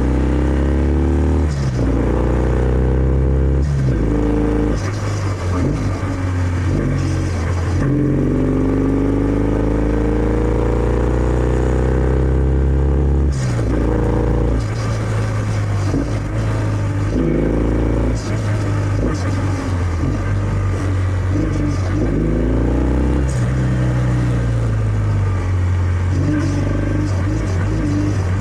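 Kawasaki W650's air-cooled parallel-twin engine running through its stock exhaust while being ridden. The engine note climbs and drops back sharply several times as the bike is taken through the gears, with one longer climb in the middle.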